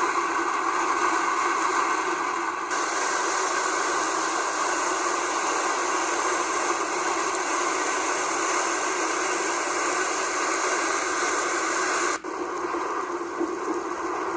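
Heavy rain falling as a steady hiss, with the sound changing abruptly twice, near the start and near the end.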